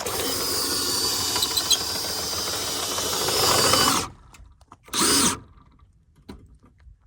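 Travel trailer stabilizer jack being powered down: a steady motor whir for about four seconds, then a short second burst about a second later.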